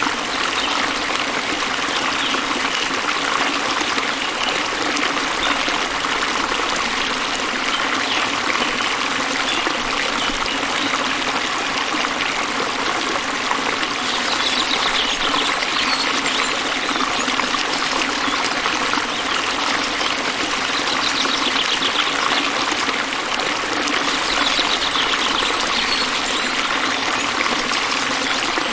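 Stream water running and trickling steadily. A faint high trill comes and goes three times over it in the second half.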